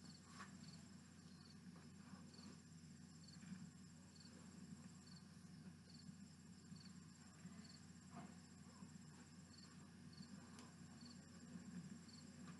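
Near silence with faint insects: a cricket chirping at a steady even rhythm and a higher trilling insect in long stretches, over a low steady hum.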